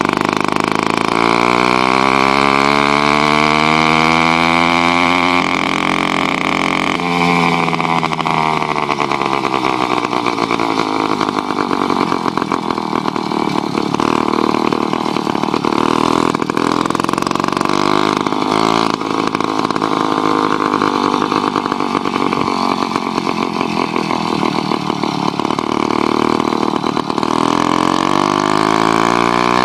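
66cc Skyhawk two-stroke bicycle engine kit running under way. It revs up over the first few seconds, drops back around five to seven seconds in, holds a fairly steady pitch through the middle, and climbs again near the end.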